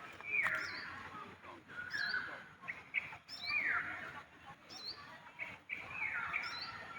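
Birds calling: a harsh falling call repeated several times, with short higher chirps in between.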